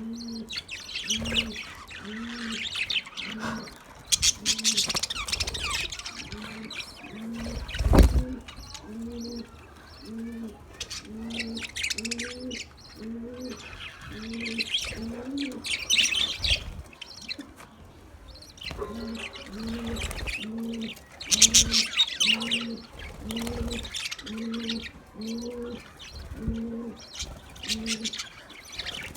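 Budgies chirping and warbling in bursts every few seconds, over a steady low call repeated about once a second. A single loud knock about eight seconds in.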